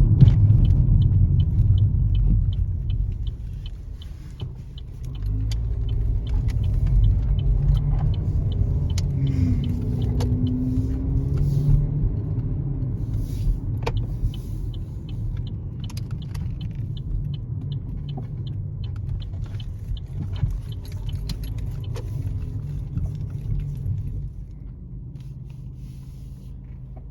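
Car on the move: steady low road rumble, with scattered light clicks and rattles, easing off near the end.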